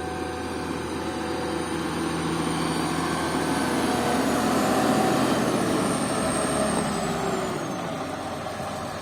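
Heavy diesel engine of a John Deere 1270 forestry harvester running, growing louder to a peak about halfway through and then easing off. A thin high whine rises and falls with it.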